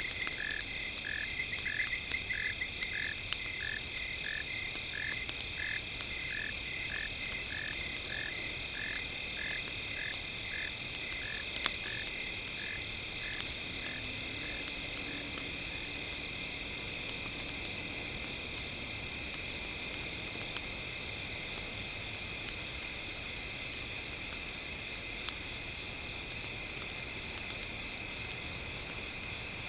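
A frog croaking in a regular series of short calls, which stop about halfway through, over a steady high insect-like drone. Scattered faint crackles and one sharp pop near the middle sound like a wood fire.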